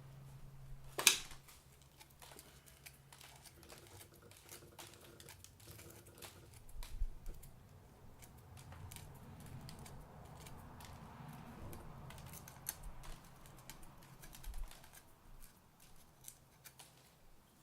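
Light clicks, taps and rustles of hand work on parts, with one sharp knock about a second in.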